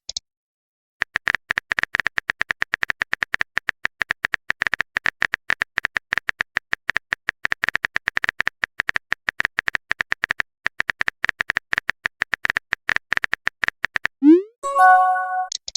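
Rapid phone-keyboard typing clicks, many a second, each a sharp tick. Near the end comes a short rising swoop and a brief chime, the sound effect of a text message being sent.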